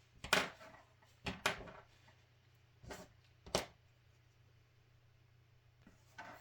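About five light clicks and taps from small hobby tools and plastic model parts being handled on a workbench, scattered over the first four seconds, above a faint steady hum.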